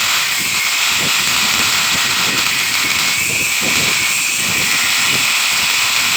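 A power tool working steel, running steadily with a loud hiss and a thin whine over it, without a break.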